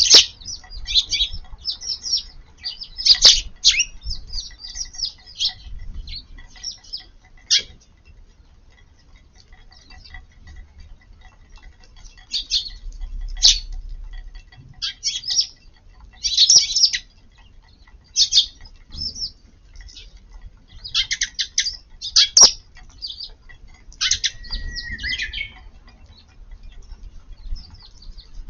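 A group of Eurasian tree sparrows chirping: bursts of short, high cheeps that come in clusters, with a quieter lull about a third of the way in. A few sharp ticks sound among the calls.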